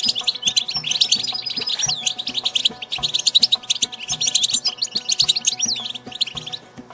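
European goldfinch singing: a fast, unbroken twittering of chirps and trills, which thins out briefly near the end.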